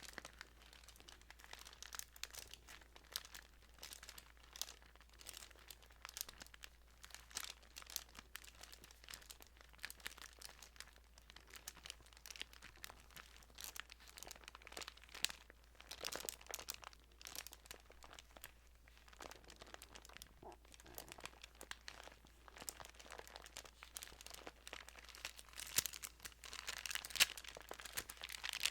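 Thin Bible pages being handled and turned: soft, continuous paper crinkling and rustling made of many small crisp crackles.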